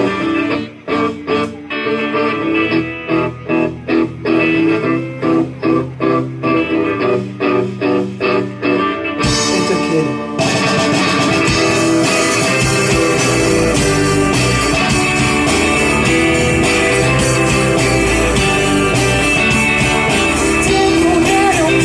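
Live rock band: a guitar plays a choppy riff of short, evenly spaced stabs for about ten seconds, then the full band with drums, cymbals and bass comes in and keeps playing.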